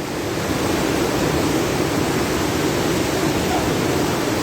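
Floodwater rushing: a steady, loud rush of water that swells slightly about a second in.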